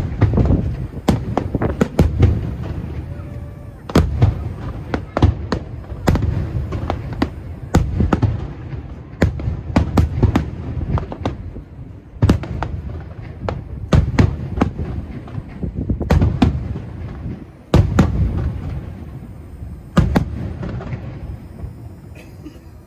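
Aerial fireworks shells bursting in rapid succession: a deep boom every second or two, with sharp cracks and a lingering low rumble between them.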